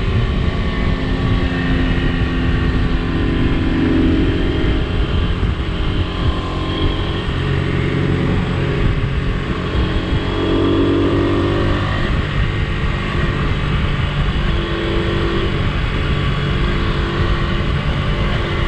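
1972 Honda CL100 single-cylinder motorcycle engine running under way, its pitch rising and falling with the throttle, over heavy wind rumble on the microphone.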